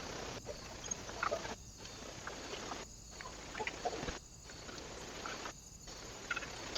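Steady hiss from a trail camera's microphone, broken by short regular dropouts about every 1.3 seconds, with scattered faint taps and brief chirp-like blips from activity at the bird feeder.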